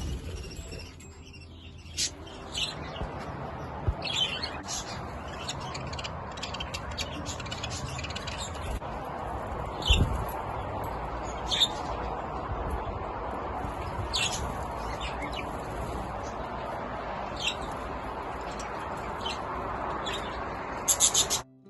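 Budgies chirping and squawking, with short sharp calls scattered throughout over a steady background hum of the flock. A dull thump comes about ten seconds in.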